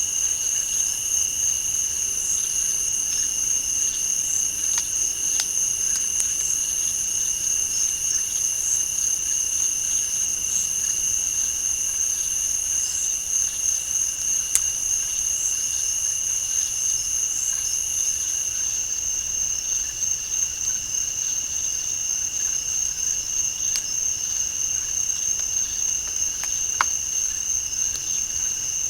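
Night insect chorus, crickets and similar insects trilling steadily at two high pitches, with a still higher chorus dropping out about two-thirds of the way through. A couple of faint sharp clicks stand out briefly over it.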